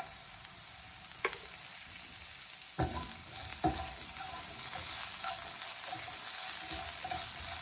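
Diced potatoes and freshly added green chillies sizzling in hot oil in a nonstick frying pan. They are stirred with a silicone spatula, and the utensils knock lightly against the pan a few times.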